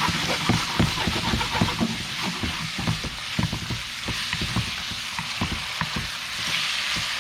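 Razor clams stir-frying in a hot pan: a steady sizzle, with a utensil knocking and scraping against the pan about three or four times a second as the clams are stirred. The stirring eases off near the end and the sizzle rises.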